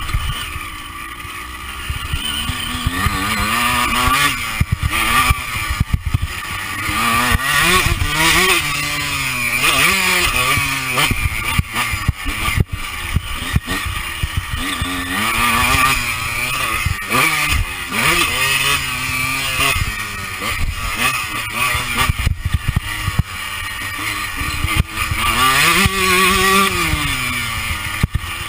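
Honda CR125 two-stroke single-cylinder motocross engine, heard from the rider's chest camera, revving up and shutting off over and over as the bike is ridden round the track. Wind noise and sharp knocks run under it throughout.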